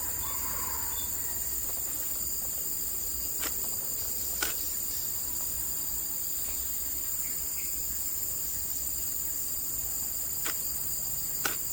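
Steady, shrill chorus of insects, several unbroken high tones held throughout, with a few sharp clicks.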